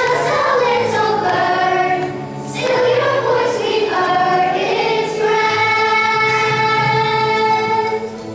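Voices singing together, a melody that moves in the first seconds and settles into long held notes.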